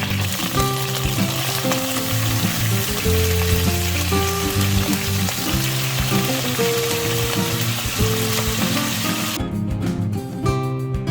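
Food sizzling as it fries in a pan, over background music. The sizzling cuts off suddenly near the end, leaving only the music.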